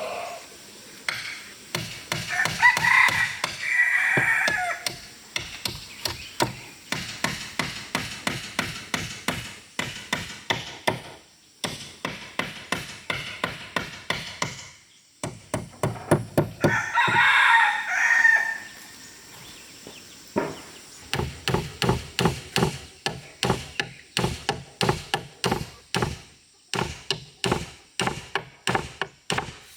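Rapid, steady blows on wood, about three a second, from chopping or hammering timber. A rooster crows twice over it, early on and again about halfway through.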